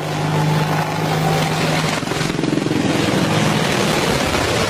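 Helicopter running, a loud steady noise of engine and rotor, with a low hum that fades about two seconds in.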